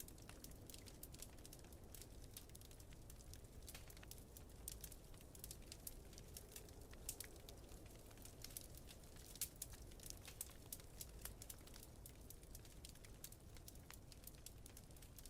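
Wood fire crackling, with frequent irregular sharp pops (the loudest about nine seconds in) over a low, steady rumble.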